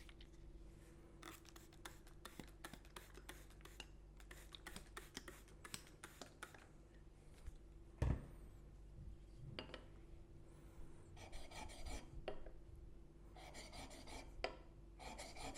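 Steel plane blade's bevel being rubbed back and forth on a wet diamond sharpening plate: a quiet, gritty scraping in many short repeated strokes, with a single knock about eight seconds in.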